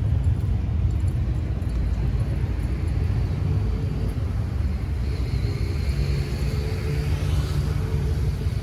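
Steady low motor-vehicle rumble, with an engine note that rises in pitch about five seconds in.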